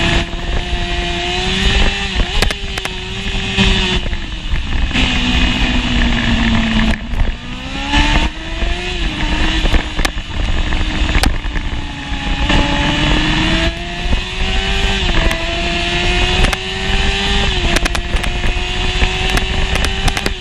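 1988 Honda CBR600F inline-four engine heard onboard at high revs, its pitch climbing through each gear and dropping back at the changes, with one longer dip to lower revs in the middle before it pulls again. Heavy wind rush on the microphone runs under the engine, with a few sharp knocks near the end.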